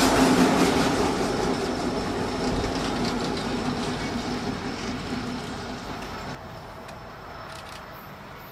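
Kansas City Southern freight train rolling past, its sound fading steadily as it moves away and dropping off suddenly about six seconds in.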